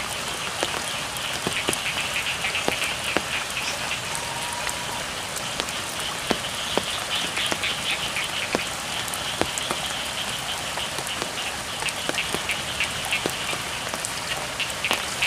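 Steady rain falling on a rice field, with individual drops ticking sharply now and then, and frogs calling in a rapid, pulsing chorus behind it.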